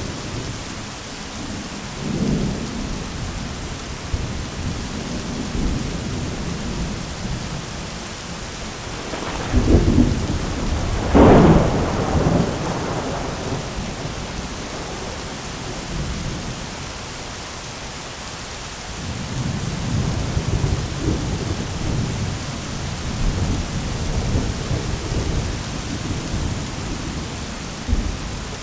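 Thunderstorm: steady heavy rain hiss with rolling thunder, the loudest peals about ten seconds in, then more low rumbling in the second half.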